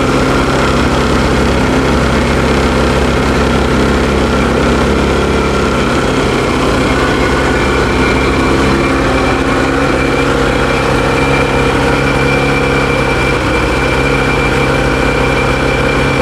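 Ski-Doo 600 E-TEC snowmobile's two-stroke engine idling steadily just after a cold start, held at its raised cold-start idle of about 2000 RPM.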